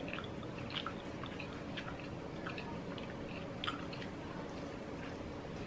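Chewing and biting a skewer of grilled street-food barbecue meat: faint, irregular wet mouth clicks, with one sharper snap about two-thirds of the way in as a piece is bitten off the stick.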